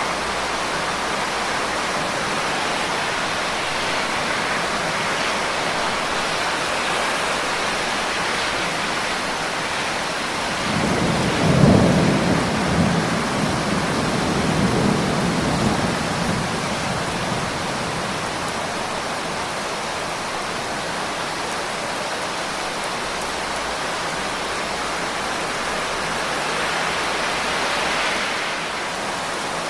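Steady heavy rain hissing, with a roll of thunder about a third of the way in that peaks quickly and rumbles away over several seconds.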